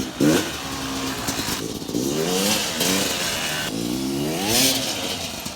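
Yamaha YZ250's two-stroke single-cylinder engine running in second gear, revving up twice with the throttle, its pitch rising and falling each time.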